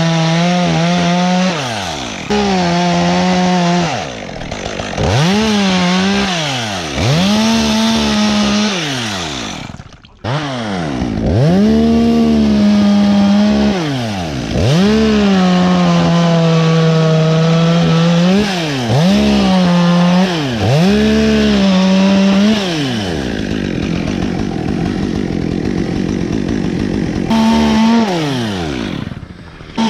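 Two-stroke chainsaw revved to full speed and let back down over and over, as when cutting logs. It cuts out briefly about a third of the way in, and runs at a lower, rougher pitch for a few seconds near the end.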